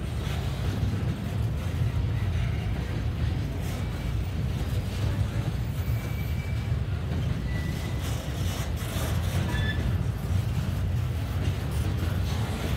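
CSX double-stack intermodal container train rolling past at close range: a steady low rumble of the well cars on the rails, with a few brief, faint high squeals.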